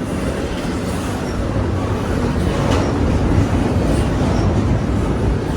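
A train rolling past at close range: a steady rumble of wheels on the rails with faint, scattered clicks.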